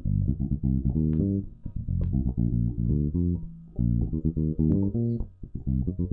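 Electric bass guitar playing a quick triad exercise with passing notes: runs of repeated plucked notes climbing through chord tones, in short phrases with brief breaks between them.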